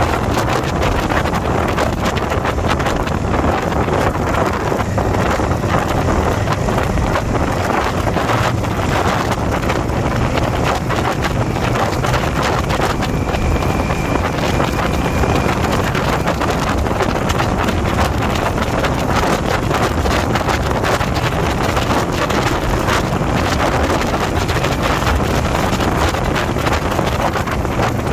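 Indian motorcycle being ridden at steady speed: a constant rush of wind over the microphone, with the engine's low rumble underneath.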